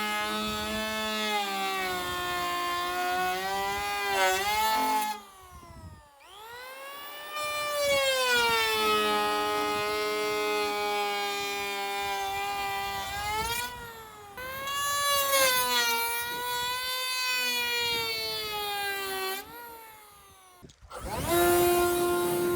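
Handheld electric power tool trimming a taper of about an eighth of an inch off the end of a board. The motor winds up, its pitch sinks and wavers as it bites into the wood, and it stops and starts again several times.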